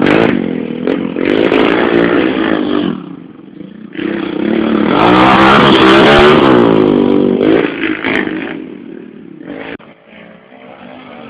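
Small 110cc motorcycles racing and revving. The loudest is a close pass from about four to eight seconds in, its engine pitch climbing and then dropping away, after which the engines fade into the distance.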